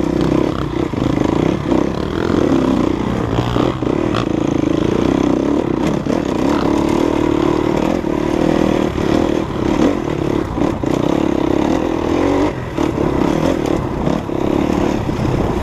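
Enduro dirt bike engine running steadily under load while riding a rough trail, with frequent short knocks and clatter from the bike and ground.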